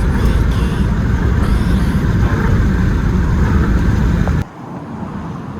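Moving vehicle's road and wind rumble, loud and steady, which cuts off abruptly about four seconds in to a quieter hum.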